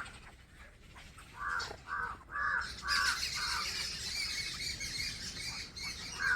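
Crow cawing, a quick run of about five caws at roughly two a second.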